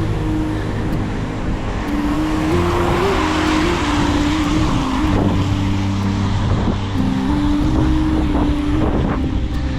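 Road traffic on a rain-wet city street: motor vehicles running close by, with a swell of tyre hiss on the wet road about three to four seconds in.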